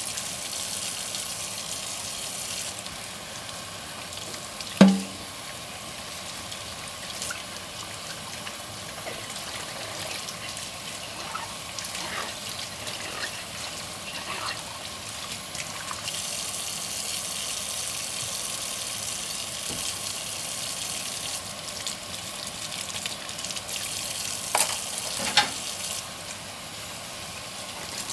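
Hand dishwashing at a sink: tap water runs steadily, its hiss changing a few times as the flow or the dishes under it shift. There is a loud knock of a dish about five seconds in and two sharp clinks near the end.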